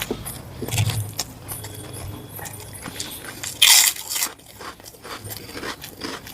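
Close-up sounds of a person eating mutton curry with rice: wet chewing and lip smacks as a string of quick clicks, with one louder noisy burst lasting about half a second just past halfway.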